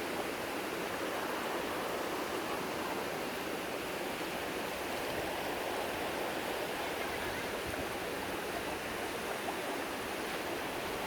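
River water flowing and rushing steadily, an even splashing with no breaks.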